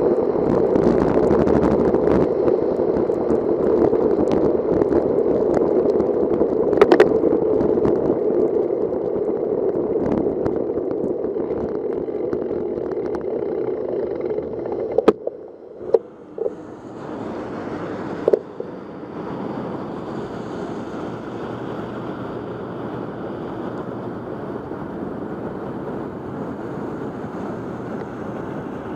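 Steady rush of wind and wet tyre noise from a bicycle being ridden in the rain. It drops sharply about halfway through, with a few sharp clicks, and then settles into a quieter steady rush.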